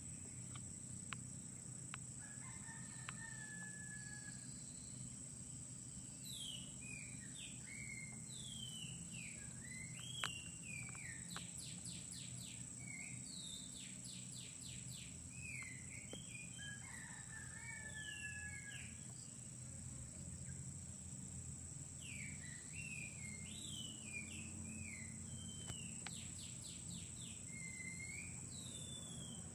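Oriental magpie-robin (kacer) song: a string of varied, sweeping whistled phrases mixed with fast rattling trills, starting a few seconds in and running on in bouts. A steady high insect drone sounds throughout.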